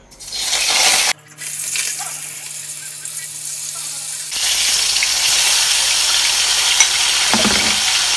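Pieces of food sizzling as they fry in hot oil in a steel wok. The sizzle breaks off briefly about a second in, then carries on, louder and steadier from about four seconds in.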